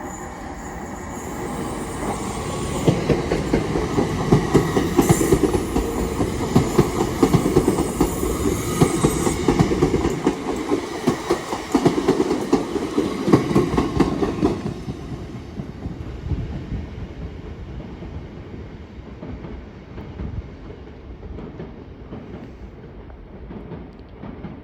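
TransPennine Express passenger train passing slowly, its wheels clicking rapidly over the rail joints with a low rumble. It builds about two seconds in, is loudest for the next dozen seconds, then fades away.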